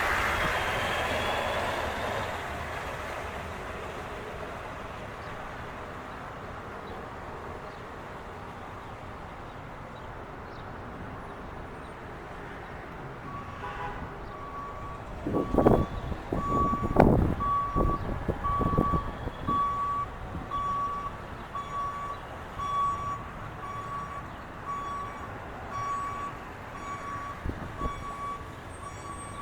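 A vehicle backup alarm starts about halfway through and beeps steadily at one pitch, about three beeps every two seconds: a large vehicle reversing. Soon after the beeping starts come several loud low thumps, and a loud vehicle sound fades out at the very beginning.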